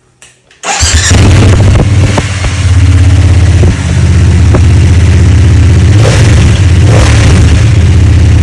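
BMW F900 GS motorcycle's parallel-twin engine starting through a new SC-Project exhaust with no resonator box. It catches about a second in and runs loud and steady, dipping briefly around three to four seconds in.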